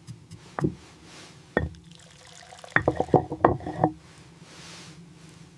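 Snow leopard cub lapping liquid: a few separate wet clicks, then a quick run of them about three seconds in.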